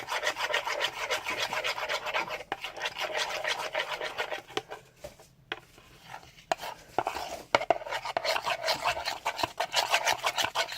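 A spoon stirring glue and food colouring in a bowl, scraping the bowl in quick repeated strokes, with a short pause about halfway through.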